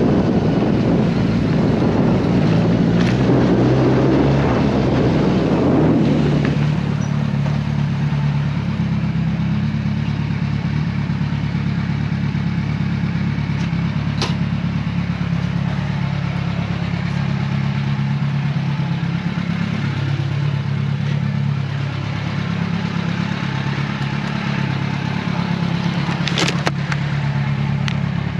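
Kawasaki Versys 1000 LT's inline-four engine running while riding, with wind rushing over the microphone for the first six seconds. It then settles to a steadier low engine note, with a couple of brief clicks.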